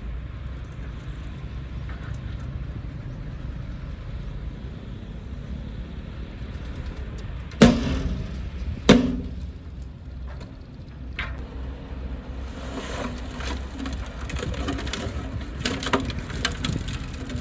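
Heavy earthmoving machinery running with a steady low diesel rumble. Two loud metallic clanks come about halfway through, followed by lighter knocks and rattles near the end.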